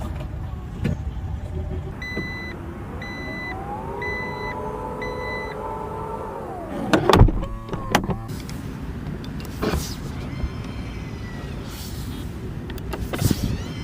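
Four short electronic warning beeps from a car, then an electric motor whining up in pitch, holding, and winding down over about three seconds, like a power-operated window or panel moving. A loud clunk follows, then a few lighter knocks.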